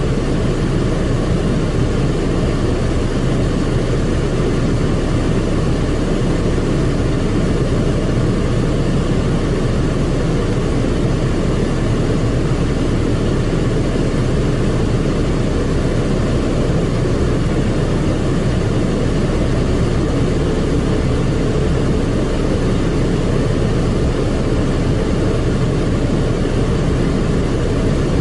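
Steady, unbroken rumbling noise of an automatic tunnel car wash, heard from inside the car's cabin.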